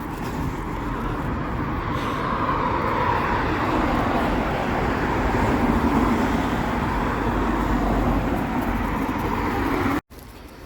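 Road traffic noise: vehicles going by on a road, a steady rushing that swells over the first few seconds and stays loud, cut off suddenly near the end.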